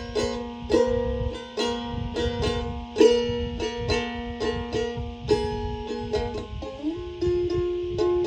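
Instrumental music: a plucked string instrument picking a run of notes over a steady held low tone, with one note sliding up in pitch about seven seconds in.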